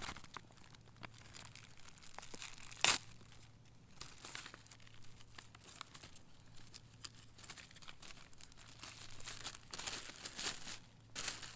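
Close handling noise: rustling and crinkling with scattered light clicks, one sharp knock about three seconds in, and a busier patch of rustling near the end.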